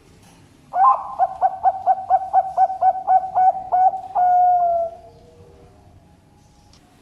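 Zebra dove (perkutut) cooing: a quick run of about fourteen short staccato coos, about four a second, ending in one longer held note.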